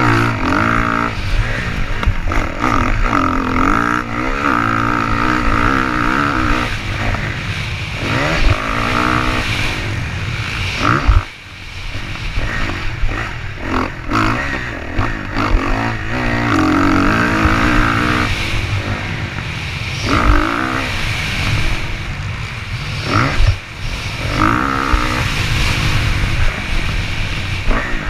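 Motocross dirt bike engine revving, its pitch climbing and dropping again and again as the bike accelerates and shifts.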